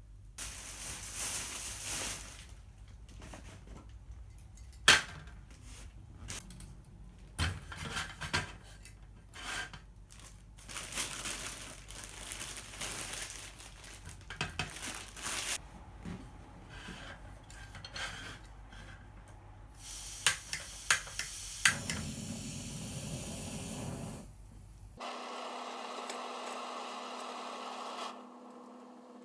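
Metal cookware and utensils being handled: irregular clinks, knocks and scrapes of pan and tools, with several sharp knocks about 5 s and 20 s in. Near the end the sound changes to a steady hiss that stops shortly before the close.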